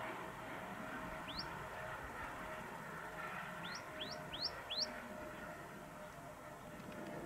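A small bird chirping: one short rising chirp, then a quick run of four rising chirps, over a faint steady hum.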